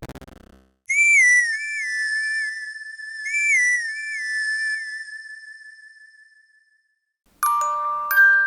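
A high whistle sound effect, played twice: each time it warbles quickly up and down a few times, then holds one long note that slowly fades. Near the end, bright bell-like notes, like a glockenspiel, start the next effect.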